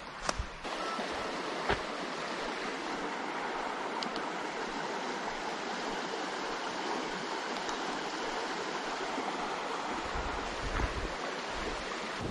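Steady, even rushing noise, with a few sharp clicks in the first two seconds.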